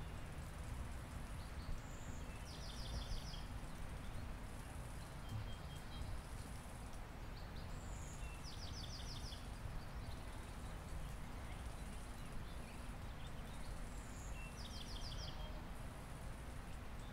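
A songbird singing a short trilled phrase three times, about six seconds apart, each with a brief higher note just before it, over a steady low background rumble.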